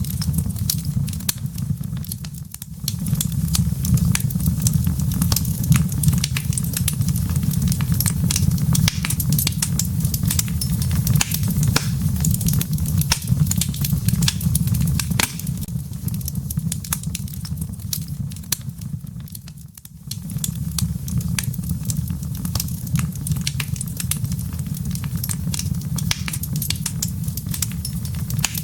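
Wood fire in a fireplace crackling, with frequent sharp pops from the embers over a steady low rumble. The sound drops away briefly twice, about two and a half seconds in and again near twenty seconds.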